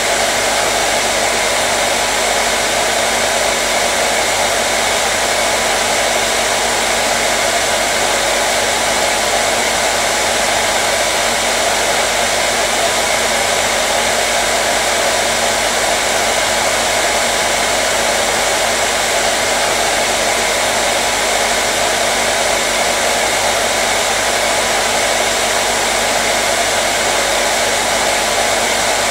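Hair dryer running steadily: an even, unchanging rush of air with a low motor hum under it.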